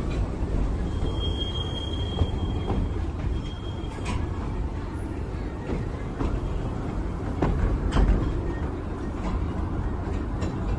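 Electric miniature tourist train running along its track: a steady low rumble with scattered clicks and knocks, and a brief thin wheel squeal about a second in.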